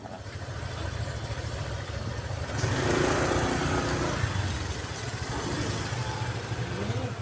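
An engine running with a low, fast pulsing rumble. It grows louder about two and a half seconds in and eases off again after a couple of seconds.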